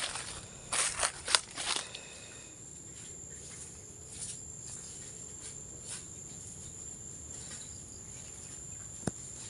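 Footsteps crunching on dry leaf litter for the first two seconds, then a steady high-pitched insect drone of crickets over faint rustling. A single sharp click near the end.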